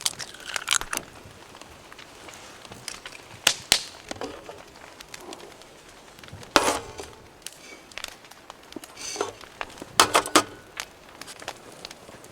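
Wood campfire crackling, with a handful of sharp pops and cracks at irregular moments over a low hiss.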